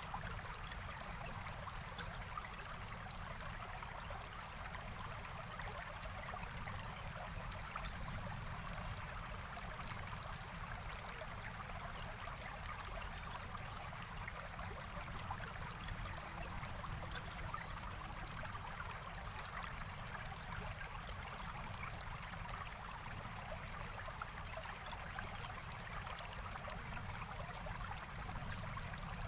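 Forest stream flowing steadily, an even, unbroken rush and trickle of water.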